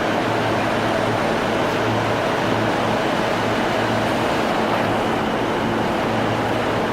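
Steady running noise of an E231-series commuter train, an even rush with a low hum underneath.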